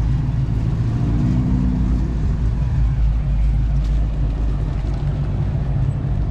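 Car engines idling with a steady low rumble, and faint voices in the background.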